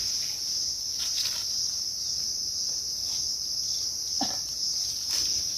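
Steady, unbroken high-pitched drone of insects, crickets or cicadas, in the forest, with a brief faint sound about four seconds in.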